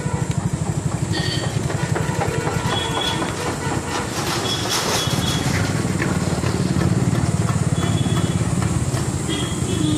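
Small commuter motorcycle's single-cylinder engine running at low road speed with a rapid, even putter, heard from the rider's seat.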